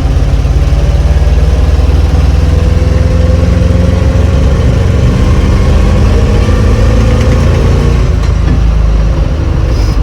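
Old three-ton grain truck's engine running with a heavy low rumble, its pitch rising gently and then easing off.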